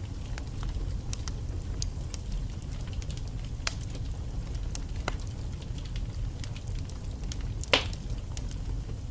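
Wood fire burning in a fireplace: a steady low rumble of the flames with scattered small crackles of the logs, and a loud pop about three-quarters of the way through.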